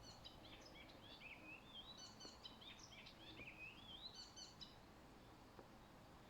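A songbird singing one long, quick, varied phrase of chirps and short whistled slides, faint over a steady background hiss. The song stops about three-quarters of the way through.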